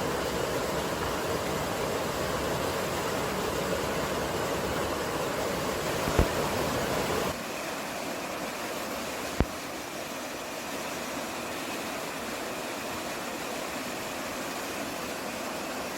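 Mountain field recording of a steady rushing noise of wind and water. About seven seconds in it cuts abruptly to a thinner, quieter hiss, and there are two short sharp clicks, one just before the change and one a couple of seconds after it.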